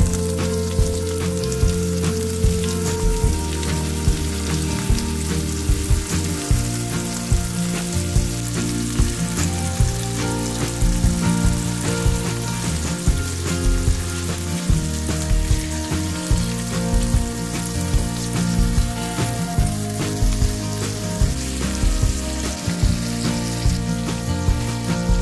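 Chicken breast pieces sizzling as they fry in hot oil in a frying pan, a steady crackling hiss. Background music with a steady beat plays under it.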